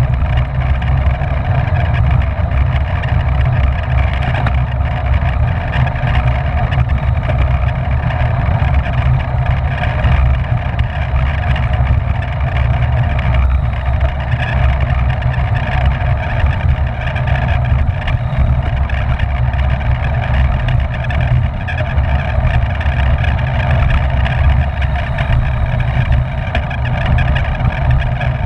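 Wind rushing over a bike-mounted camera's microphone at race speed, a steady low buffeting with a constant whirring above it.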